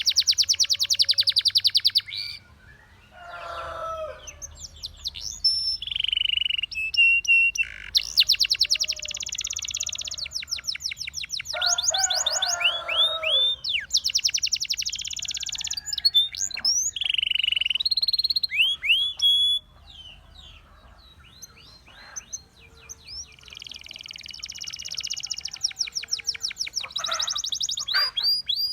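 Russian song canary singing a long, varied song: very fast high trills alternating with rising whistled notes and lower warbled phrases, broken by short pauses.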